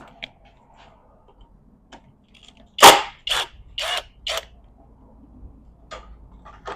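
Hand tools working on a manual transmission case: four sharp metallic clicks about half a second apart around three seconds in, the first the loudest, with a few fainter clicks either side.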